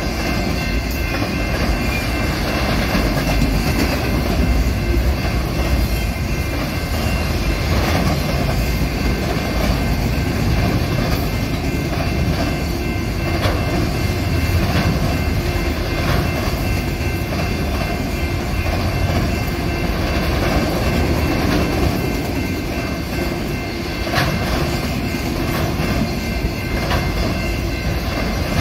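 Freight train of autorack cars rolling past at close range: a steady rumble of wheels on rail, with occasional clicks from the wheels.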